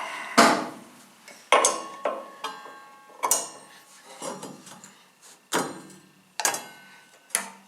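Metal tools clinking and clanking against the cast-iron parts of a table saw while the blade is being changed: about eight sharp, irregular clinks, each with a brief metallic ring.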